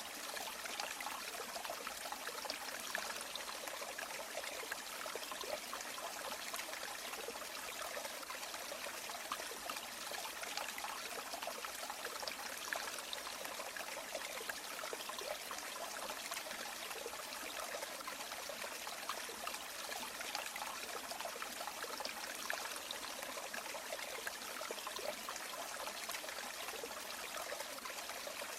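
River water flowing and trickling over stones: a steady, even rush of splashing water.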